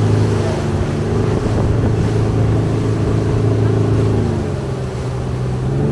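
Speedboat engine running steadily; about four seconds in its pitch drops as it slows, then rises again near the end.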